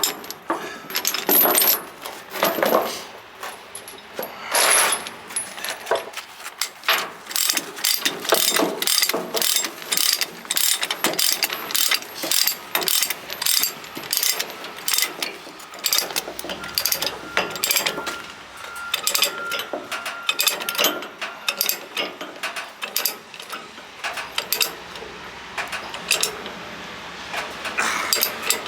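Steel tie-down chains clinking and a ratchet chain binder clicking as it is cranked tight: a long, dense run of quick metallic clicks and clanks.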